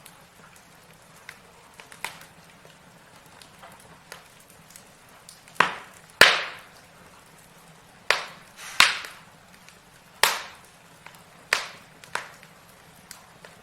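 Logs burning in a fireplace, crackling with sharp snaps and pops that each die away quickly; scattered small ticks at first, then half a dozen louder pops from about the middle on.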